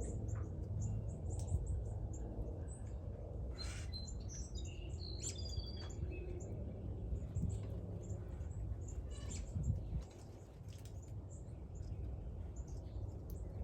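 Northern cardinals giving scattered short, sharp chip calls and chirps, with a steady low rumble underneath.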